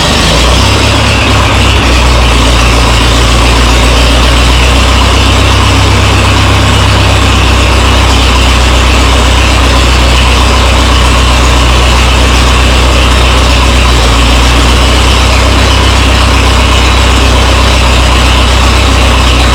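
Minneapolis-Moline tractor engine running after being started, loud and steady, its speed shifting a little in the first several seconds before settling.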